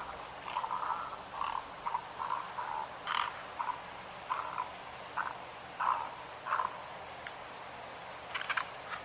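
Egrets and night herons calling at their roost: short, harsh calls repeated irregularly about once or twice a second.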